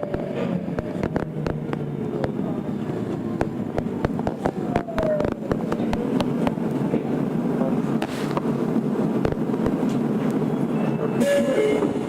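Tokyo Metro 02 series subway car running with its IGBT-inverter motors, heard from inside the car: steady wheel-and-rail rumble with frequent rail-joint clicks. A falling motor whine comes once early on and again about four seconds in, and stepped inverter tones appear near the end, as the train brakes for the next station.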